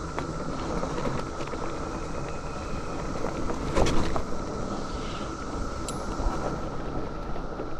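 Mountain bike riding over a dirt trail: rumble of tyres and wind on the helmet camera's microphone, with rattles and a louder knock about 4 seconds in. Cicadas drone steadily and loudly above it.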